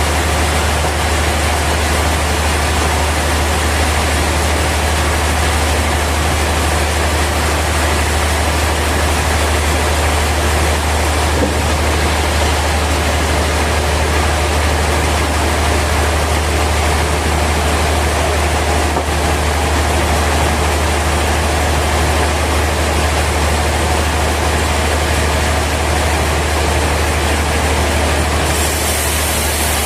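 Sawmill machinery running steadily: a constant low hum with an even hiss over it.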